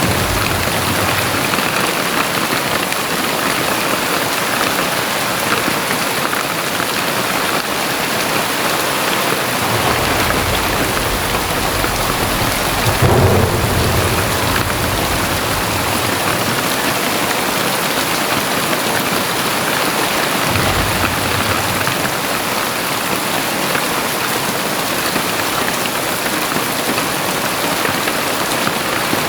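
Very heavy rain falling steadily. A low rumble builds about ten seconds in and peaks a few seconds later, and a shorter rumble comes around twenty seconds in.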